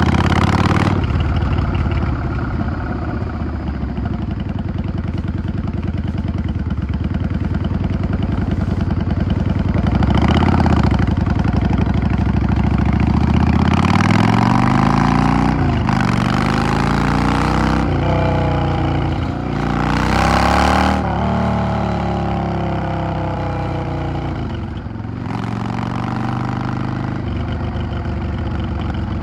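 Yamaha XVS 650 V Star's air-cooled V-twin engine on the move: steady low running at first, then about halfway through it pulls hard up through several gears, the pitch rising and dropping back at each shift, before easing off near the end.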